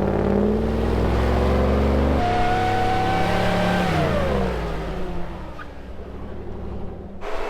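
Vehicle engine revving hard under load in two-wheel drive while pushing through snow. The pitch climbs slowly, holds, then falls away about four seconds in as the driver comes off the throttle. The sound breaks off abruptly near the end.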